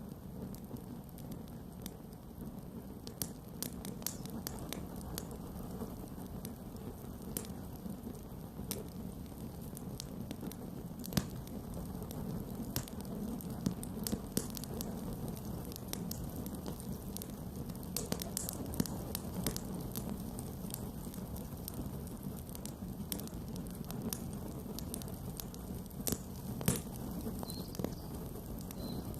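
Campfire burning: a steady low rumble of flame under irregular sharp crackles and pops, with a few louder pops now and then.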